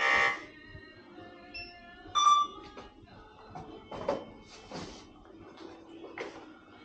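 Short electronic beeps from a checkout barcode scanner: one at the start and another about two seconds in. Soft rustling and knocks of goods being handled follow.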